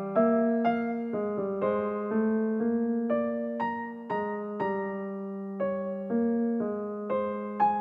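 Background music: a gentle keyboard melody in piano tones, with notes and chords struck about twice a second and each fading away.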